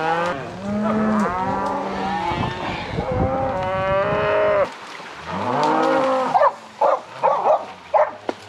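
Cattle mooing: several cows bawling in long, overlapping calls, then a single long call after a sudden drop about halfway through, and a run of short calls near the end.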